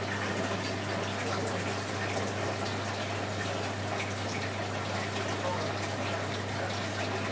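Hoover Electron 1100 washing machine taking in water: a steady rush of water with an even low hum underneath.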